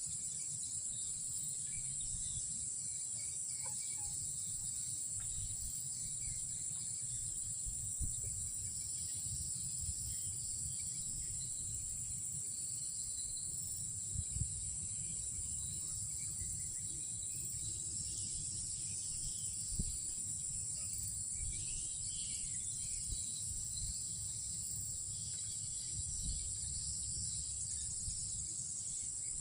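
Night insects, crickets, in a steady high-pitched chorus, over a low rumble with a few faint ticks.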